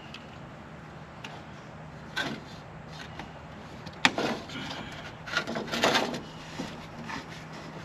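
Handling noises: a few scrapes and knocks, with one sharp click about four seconds in, over a steady low hum.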